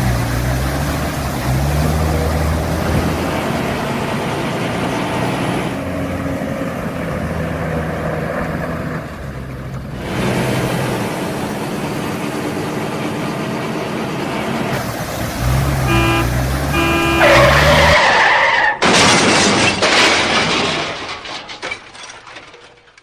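Vehicle engine running, its pitch stepping up and down, with a break about ten seconds in. Around sixteen seconds in come a quick row of short beeps, then a loud noisy scraping stretch that fades away near the end.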